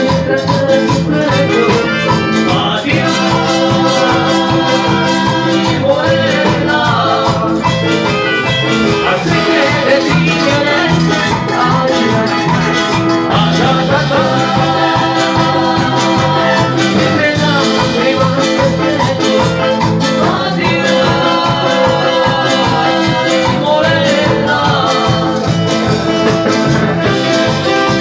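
Latin dance orchestra playing loud, continuous music with a steady beat.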